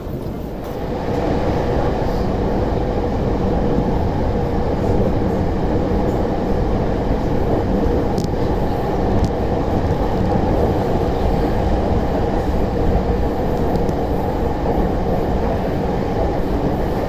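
JR E231-500 series electric train running, heard from inside the car: a steady rumble of wheels and running gear with a faint steady hum. It grows louder over the first couple of seconds, then holds even.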